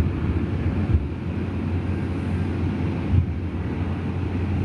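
Wind buffeting the microphone: a steady low rumble with a couple of brief louder gusts.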